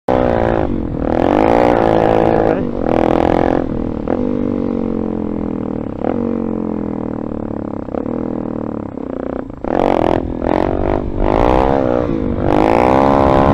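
Dirt bike engine running under load, its pitch rising and falling again and again as the throttle is opened and closed, with a steadier stretch in the middle.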